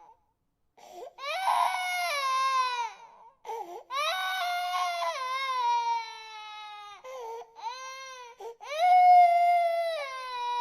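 Baby crying: a string of long wails, each falling in pitch, broken by short breaths between them. The loudest wail comes near the end.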